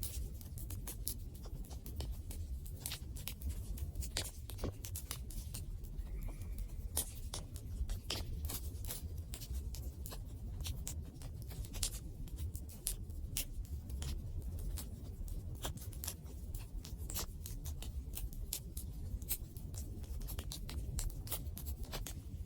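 Campfire burning: wood crackling with frequent irregular sharp pops and snaps over a low steady rumble.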